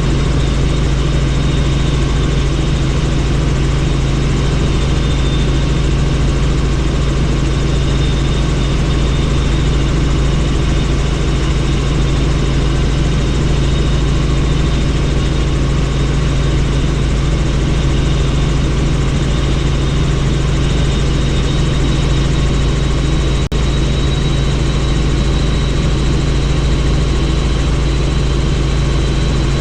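Helicopter in flight heard on board: loud, steady rotor and engine noise with a constant low drone under a rush of wind. A momentary dropout about three-quarters of the way through.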